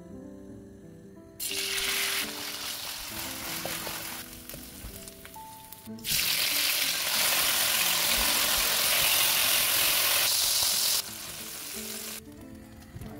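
Shrimp frying in hot oil in a nonstick pan: a sizzle that starts abruptly about a second in, becomes much louder around the middle and drops back near the end. Background music plays under it.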